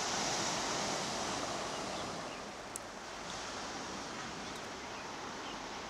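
Ocean surf washing on a beach, a steady rushing wash that is loudest near the start and then eases off slightly.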